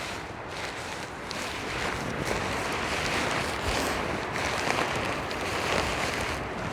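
Strong wind gusting, with the nylon tent fabric rustling and flapping in it.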